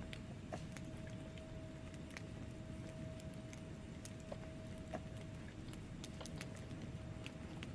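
Wood fire burning in a fireplace: a low steady rumble with scattered sharp crackles and pops from the logs, and a faint steady hum underneath.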